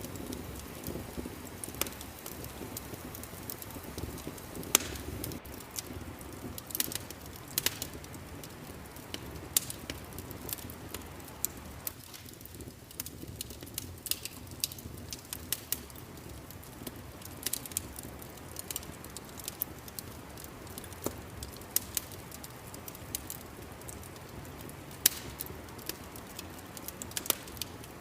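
Wood fire crackling in a fireplace: irregular sharp pops and snaps scattered through a steady low rumble of burning.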